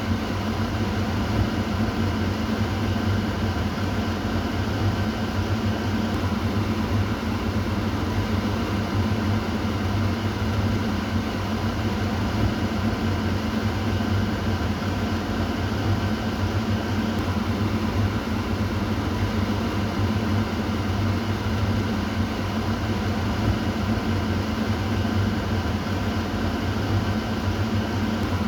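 Kitchen exhaust fan running steadily: an even rush of air over a low motor hum.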